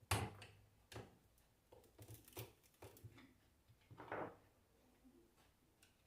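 Metal parts of a car alternator being handled on a workbench: a series of short clicks and knocks, the loudest right at the start, with a brief scrape about four seconds in.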